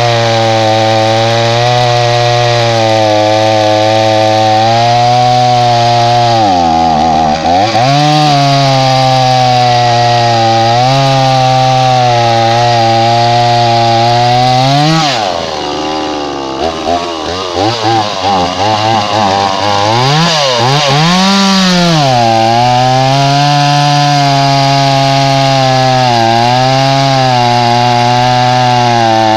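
A small gas-powered two-stroke chainsaw, a cheap Chinese Blue Max, running hard while cutting into wood. Its engine note sags sharply once about a quarter of the way through. About halfway it drops again and stutters unevenly for several seconds before picking back up. This is a bog under load that the owner thinks probably needs a little carburetor adjustment.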